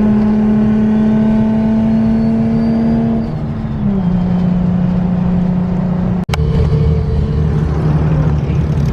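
Car engine running steadily while driving, its pitch stepping down about three and a half seconds in. The sound drops out for an instant just after six seconds.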